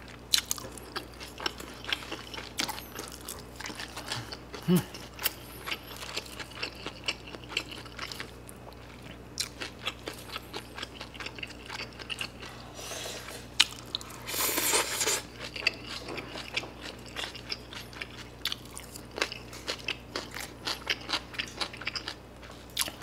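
A person eating rice noodles and pork cutlet close to the microphone: steady chewing and mouth clicks throughout, with one louder rush of noise lasting about a second a little past halfway.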